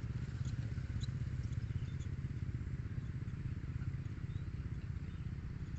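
A steady low rumble throughout, with a few faint, short high bird chirps over it.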